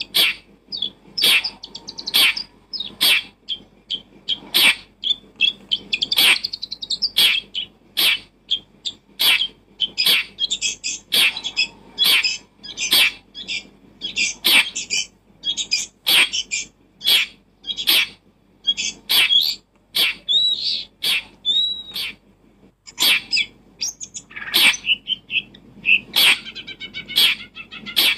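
A bird chirping: short, sharp calls, about one or two a second, with some twittering between them.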